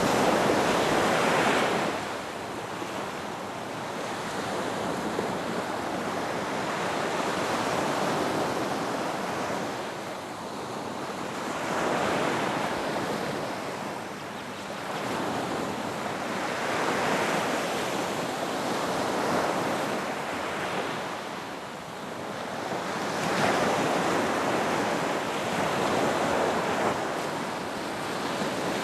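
Ocean waves breaking and washing on a beach, a continuous surf rush that swells with each wave every few seconds. The loudest swell comes right at the start.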